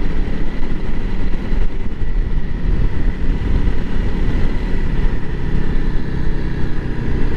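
Honda CRF300L Rally's single-cylinder engine running steadily while the motorcycle is ridden.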